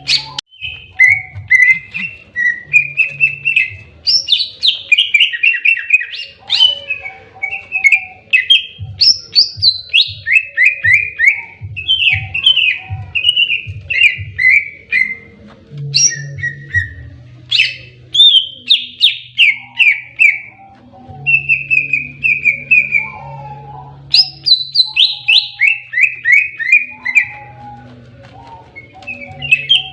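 Green leafbird (cucak ijo) singing in the aggressive 'fighting' style, phrase after phrase of rapid, falling whistled notes and chatter, with short breaks between phrases.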